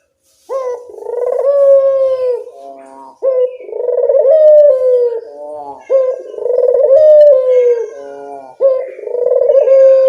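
Local puter dove cooing loudly as a lure call, starting about half a second in: four long, slightly falling coos, each ending in a short stuttering run of notes.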